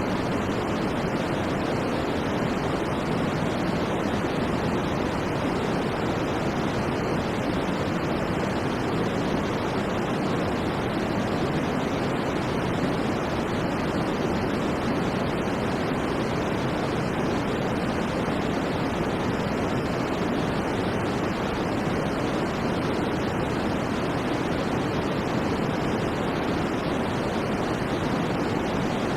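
Steady white-noise sleep sound: an unbroken, even hiss that never changes, with most of its weight in the low and middle range and little at the top.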